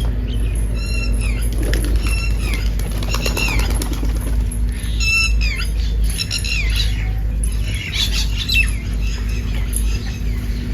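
Birds calling: short, harsh calls that dip in pitch, repeated about once a second, over a steady low rumble.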